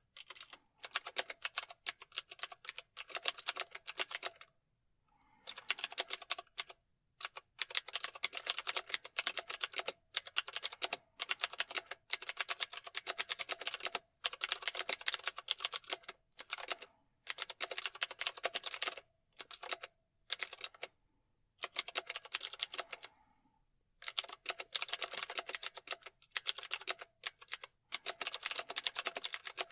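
Computer keyboard being typed on: quick runs of keystroke clicks a few seconds long, broken by short pauses.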